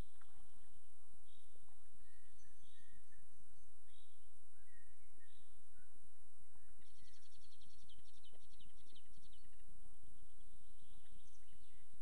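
Wild birds calling over a steady low rumble and a high hiss: one bird repeats a short note about every second and a quarter, others add scattered chirps, and a fast rattling trill comes about seven seconds in.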